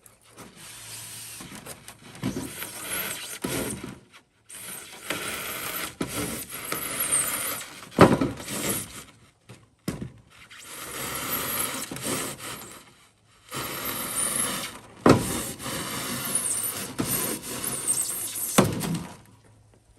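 Rigid foam insulation board being cut: four long, noisy cutting strokes of a few seconds each with short pauses between them, and three sharp knocks, the first about eight seconds in.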